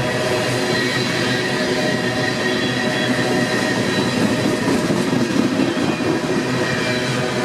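Freight train rolling by on the main line: a steady noise of wheels on rail with several thin, steady tones running above it.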